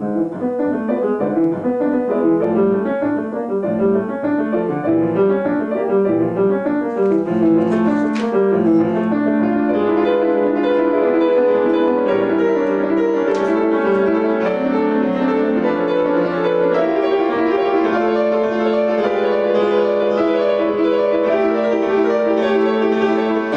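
A classical piece played on piano: quick, busy passages of notes in the first half, settling into longer held chords and repeated notes in the second half.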